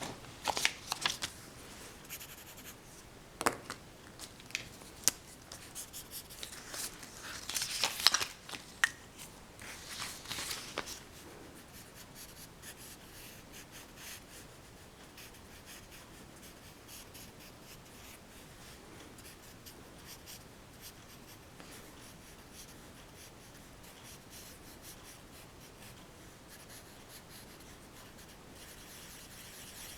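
Pencil scratching on paper in sketching strokes, busier and louder for the first ten seconds or so with a few sharp taps, then settling into light, soft strokes.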